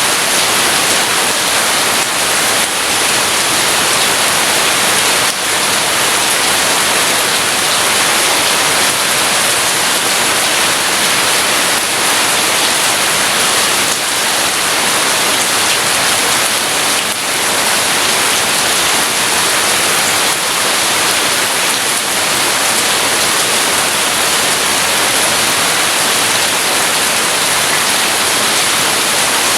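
Heavy rain falling steadily, an even, dense hiss with no thunder.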